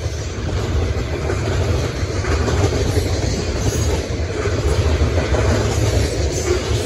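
Tank cars of a long freight train rolling past close by, steel wheels running steadily on the rails with a loud, low rumble and clatter.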